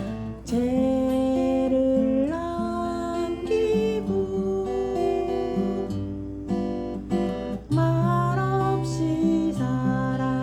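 Seagull acoustic guitar strummed and picked in a slow accompaniment in C, with a voice singing the melody over it.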